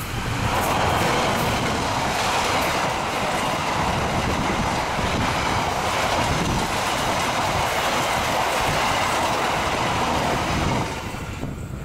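Harina passenger train's carriages rolling past at speed: a steady, loud rush of wheels on rail that drops off sharply about eleven seconds in.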